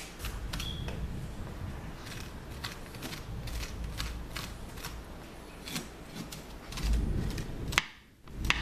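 A spoon scraping and scooping the seeds and stringy pulp out of a halved raw spaghetti squash: a run of irregular short scrapes and clicks, with a sharp knock near the end.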